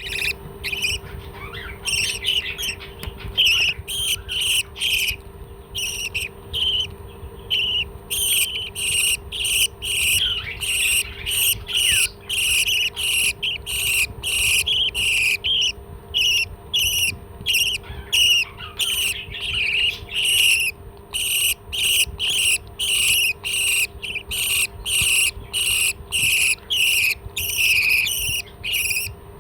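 A parrot giving short, shrill calls over and over, about two to three a second, in a steady rhythm.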